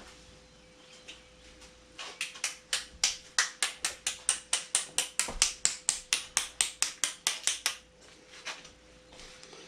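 A rapid, even run of ratchet clicks, about five a second, starts about two seconds in and stops after some six seconds: a ratchet wrench being worked to tighten a fastener.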